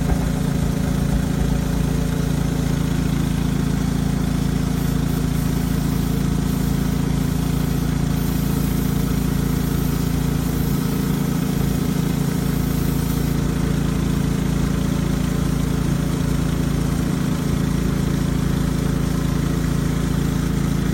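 An engine running steadily at idle, an even low drone that does not change.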